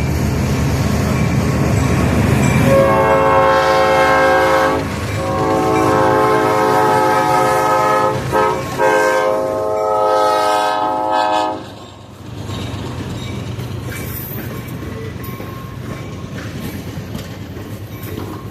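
Locomotive air horn with a chord of several notes, sounding a long-long-short-long pattern, the standard grade-crossing signal, over the rumble of the train. After the horn stops, the train's rumble goes on more quietly.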